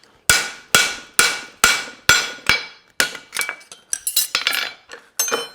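Farrier's hammer striking a steel horseshoe on an anvil to level it, about two ringing blows a second, with a quicker run of lighter taps about four seconds in.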